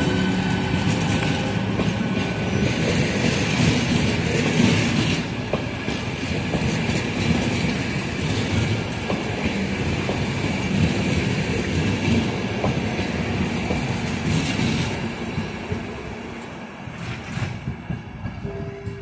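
A train pulling out and running past, its wheels clattering over the rail joints under a steady rumble that fades away over the last few seconds.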